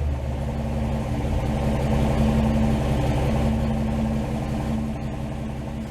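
Dual-carburetted 1954 Chevrolet 235 inline-six running steadily in a 1949 Chevy truck, warmed up to about 180° operating temperature after roughly five minutes of running; it gets slightly louder about two seconds in and eases off toward the end.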